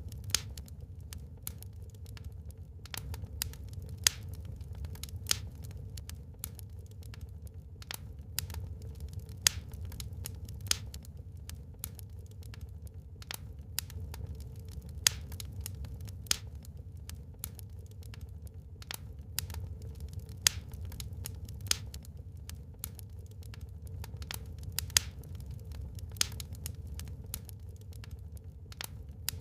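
Wood fire burning in a fireplace, crackling with irregular sharp pops, about one or two a second, over a steady low rumble.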